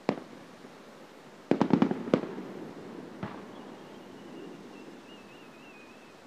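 Aerial fireworks shells bursting in a mountain gorge: one sharp bang at the start, a quick cluster of about five bangs around one and a half to two seconds in, and a smaller one just after three seconds, each trailing off in an echo. Through the second half a thin, faint whistle wavers as another shell climbs.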